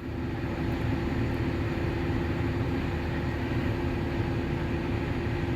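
Diesel farm machinery running steadily at working speed: a constant low engine drone with a steady hum over it.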